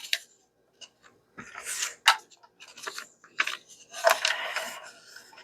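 Paper being handled, rustling and crinkling in irregular bursts, with a few short sharp clicks.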